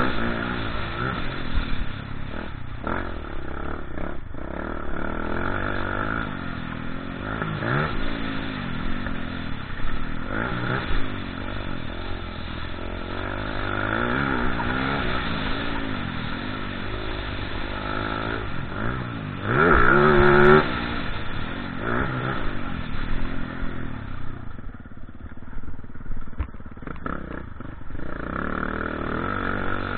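Motocross motorcycle engines revving hard and backing off, their pitch repeatedly rising and falling, with the loudest burst about twenty seconds in.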